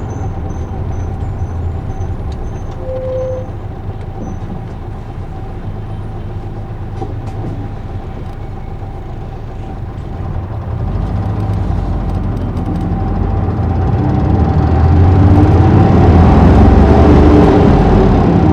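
Isuzu Erga city bus (PJ-LV234L1) heard from inside the cabin, its diesel engine and drivetrain running with a steady rumble. About halfway through it grows louder, with the engine note climbing as the bus pulls away and accelerates.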